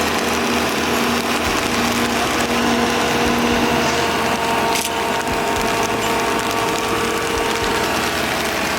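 A machine's engine running steadily, under a constant loud rush of noise.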